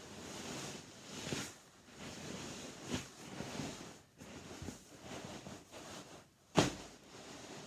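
A beanbag being squeezed and moved about by hand, its filling rustling and shifting in uneven surges. A few sharper pats stand out, the loudest a sudden slap near the end.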